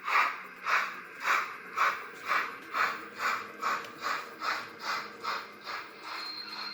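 Zimo sound decoder in a Roco model of a Prussian T12 steam tank locomotive, playing steam exhaust chuffs through the model's small speaker, about two chuffs a second, quickening slightly and growing fainter. A brief thin high tone sounds near the end.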